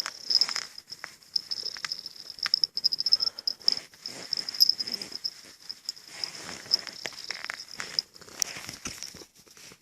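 Soft, irregular rustling and small clicks of a cat's fur against the owner's clothes as the cat hugs and nuzzles him, over a steady faint high-pitched whine.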